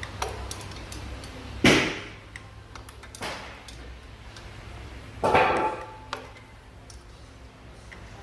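Metal hand tools knocking and clinking while working on the engine: three sharp clanks, the first the loudest and the last ringing briefly, among lighter clicks, over a low steady hum.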